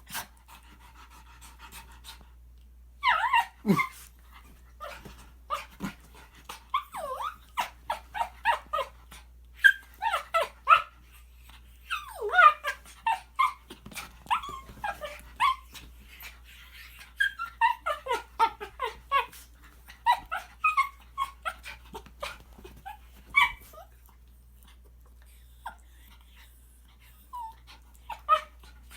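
A Shih Tzu making a long run of short, high-pitched whining and yipping noises that bend up and down in pitch, coming in clusters from about three seconds in and thinning out near the end.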